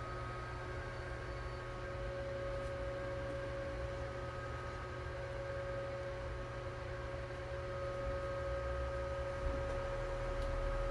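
Steady electrical hum with a few constant whining tones over light hiss, unchanging throughout.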